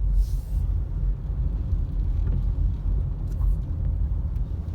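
Steady low rumble of a car being driven, engine and tyre noise heard from inside the cabin, with a brief hiss shortly after the start.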